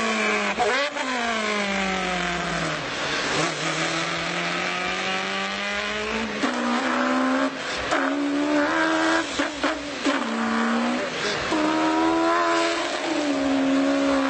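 A man imitating a car engine with his mouth: a long falling note like an engine winding down, then a string of short rising revs, each cut off by a quick click and drop in pitch as in gear changes.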